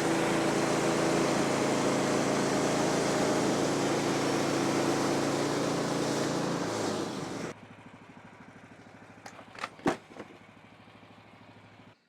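Woodland Mills bandsaw sawmill's gas engine running at full throttle as the blade cuts through a log, then dropping to a low, pulsing idle about seven and a half seconds in. A few sharp knocks follow a couple of seconds later.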